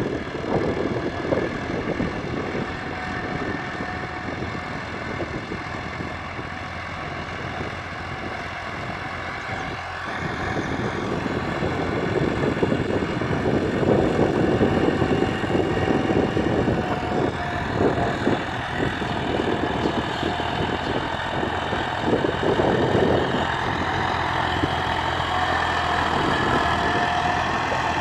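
Tractor engine running steadily, growing louder about eleven seconds in.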